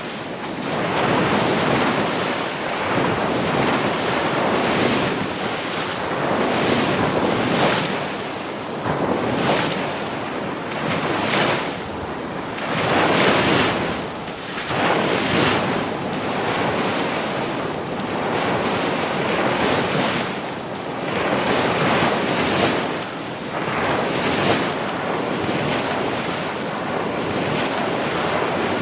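Ocean waves breaking and washing on shore, the surf swelling and easing every second or two, with wind noise on the microphone.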